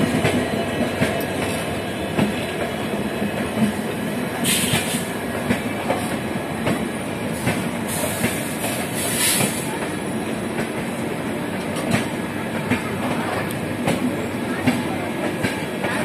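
Indian Railways express passenger coaches rolling past close by on the adjacent track: a steady wheel-on-rail rumble with the clickety-clack of wheels over rail joints, and a brief hiss twice, about four and nine seconds in.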